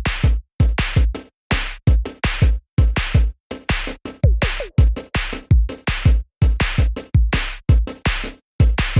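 Electronic background music with a punchy drum-machine beat: deep kick drums and sharp hits in a steady, choppy rhythm.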